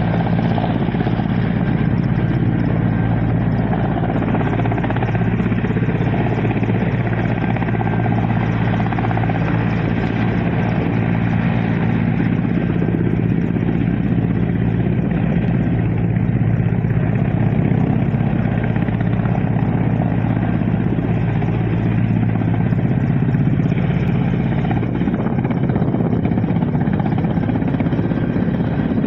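Helicopter running steadily and loudly, a constant engine and rotor noise with a slight shift in pitch near the end.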